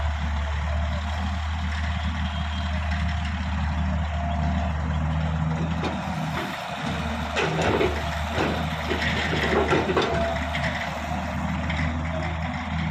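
Heavy diesel machinery engine running steadily, with a few seconds of louder, rougher irregular noise in the middle.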